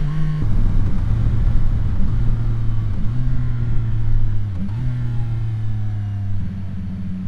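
CFMOTO 675 SR-R motorcycle's three-cylinder engine running at highway speed under steady throttle, its pitch dropping sharply about half a second in with an upshift, dipping briefly twice and settling lower near the end, over low wind rush.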